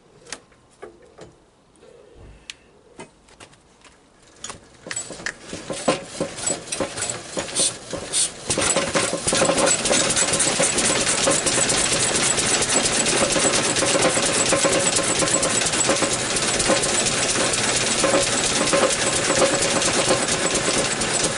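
Small petrol engine being started: a few isolated clicks and pops, then irregular firing that builds over several seconds until it catches about eight seconds in and runs steadily, driving a belt and pulley.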